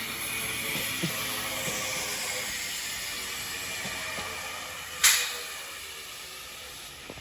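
Class 331 electric multiple unit running into the platform, a steady hissing rumble with a few light knocks that slowly fades as it slows. A sudden sharp burst of hiss about five seconds in.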